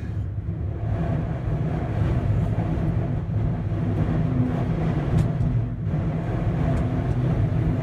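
Strong wind buffeting a stopped gondola cabin and the microphone, a steady low rumble that swells and dips.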